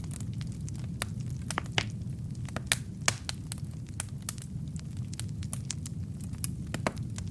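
Wood fire burning in a fireplace: logs crackling and popping in quick irregular snaps over a steady low rumble of flame.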